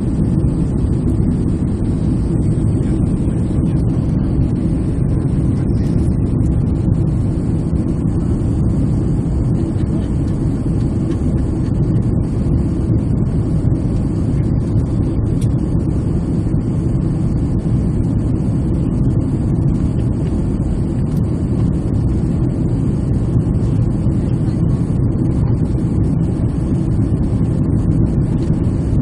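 Airliner cabin noise in flight: the steady, low-pitched rumble of the jet engines and the airflow over the fuselage, heard from a window seat.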